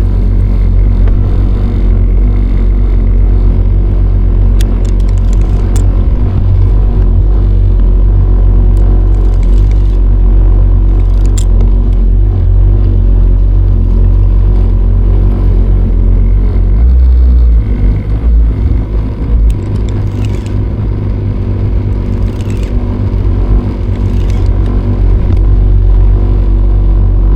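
Kawasaki jet ski engine running steadily underway, a deep rumble with a steady drone. About two-thirds of the way through, the note surges briefly, then runs rougher and unsteady for a few seconds before settling again.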